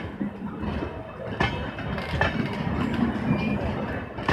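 LHB passenger coaches rolling past on the track, a steady low rumble broken by a few sharp clicks as the wheels cross rail joints.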